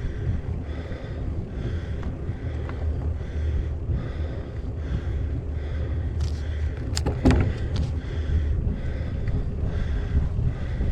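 Wind buffeting an action camera's microphone on a moving bicycle, a steady low rumble with a hiss that swells and fades a little faster than once a second. About six to eight seconds in comes a short cluster of sharp clicks and knocks, the loudest sound.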